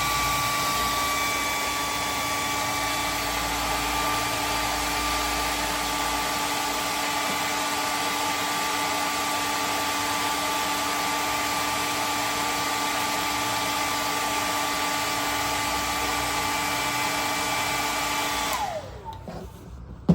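Hair dryer blowing steadily with a motor whine, warming a cold nitro RC engine so it starts more easily. Near the end it is switched off and the whine falls away as the motor spins down.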